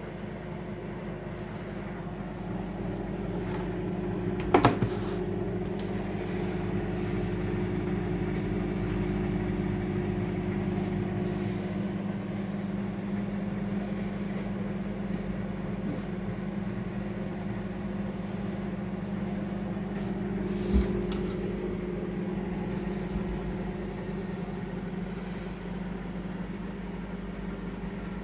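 Microwave oven running with a steady hum while it heats a ready meal, with two short knocks, one about five seconds in and one about twenty seconds in.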